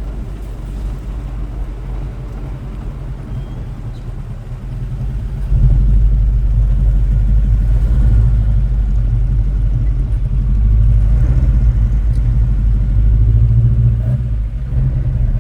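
A car engine's low rumble, getting noticeably louder about five seconds in and staying loud.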